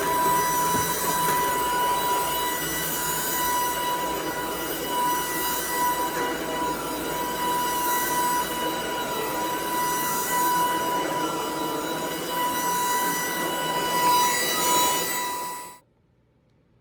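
Shark DuoClean cordless stick vacuum running with a steady high whine and a hiss that swells and eases every second or so, then cutting off abruptly near the end.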